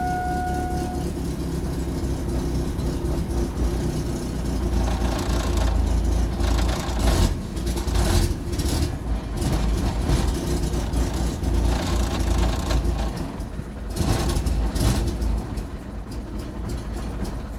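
2001 Chevy S10 pickup's engine being cranked over by the starter, failing to start, with uneven noisy surges over a steady low rumble from about five seconds in.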